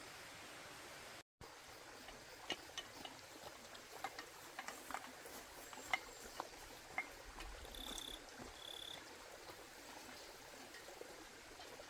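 Faint outdoor ambience with a steady hiss, scattered light clicks and taps through the middle, and two short high chirps near the end.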